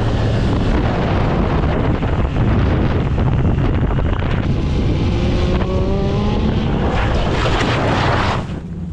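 Motorcycle riding at speed, with heavy wind rush on the microphone. About five seconds in, an engine note rises as the bike speeds up.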